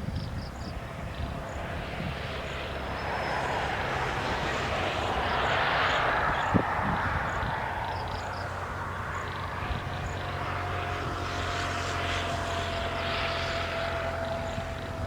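A distant engine drone that swells to a peak about midway and then eases off, with a single sharp click in the middle and faint high chirps.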